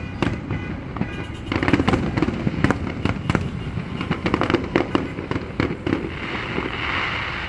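A fast, irregular string of sharp cracks and pops for several seconds, thinning out near the end into a steady hiss.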